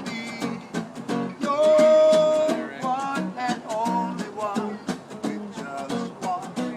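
A man singing a rocksteady song over a strummed acoustic guitar, holding one long note about a second and a half in.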